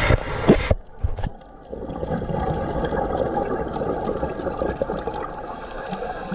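Underwater gurgling of a scuba diver's exhaled bubbles; a loud burst breaks off less than a second in, and after a short lull a steadier bubbling hiss continues.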